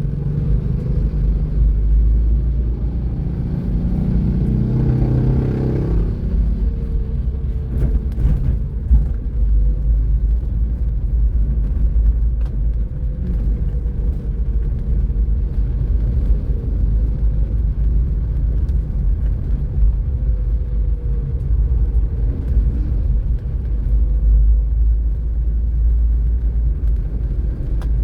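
A car driving on a city road: a steady low rumble from the engine and tyres. About four to six seconds in, a louder pitched engine sound rises over it.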